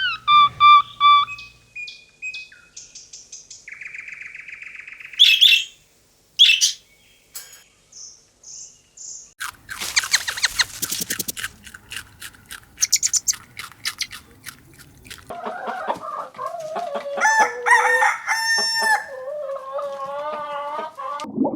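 Birds calling one after another: short chirps, a trill and clicks in the first half, then a chicken crowing and calling in long wavering calls over the last six seconds.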